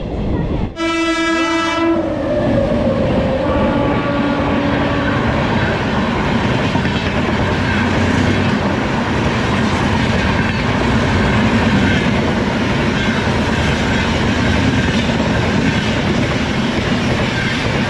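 A train horn blasts about a second in for roughly a second, followed by a lower horn tone lasting a few seconds. Then comes the steady rumble and wheel clatter of a train running on the track.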